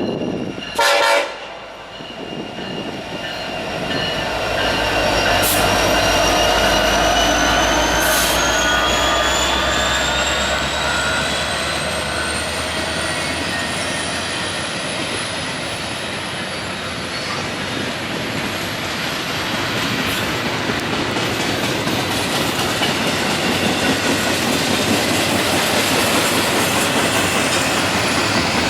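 A train passing close by: a short, loud blast about a second in, then the deep rumble of the locomotive going by and the steady rolling noise of the cars on the rails, with a thin whine slowly rising in pitch.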